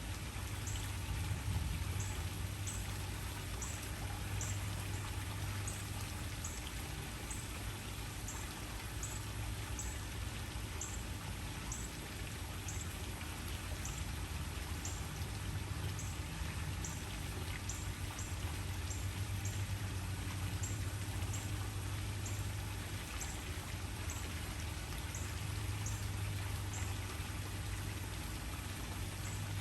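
Waterfall: a steady rush of falling water with a deep low rumble. Short high-pitched ticks repeat a little more than once a second over it.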